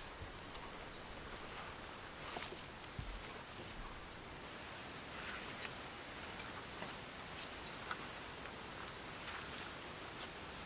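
Small woodland birds calling: repeated short, high chirps, with a thin, very high trill twice, about four and a half seconds in and again about nine seconds in. Faint scattered rustles and light clicks underneath.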